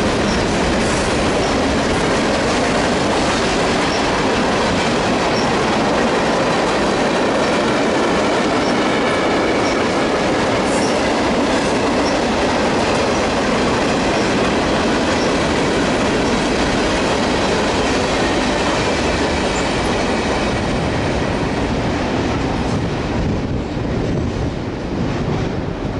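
Freight cars of a mixed freight train rolling past on the rails: a steady, loud rumble and clatter of steel wheels on track, with a faint high wheel squeal. The noise eases off about three-quarters of the way through as the end of the train goes by.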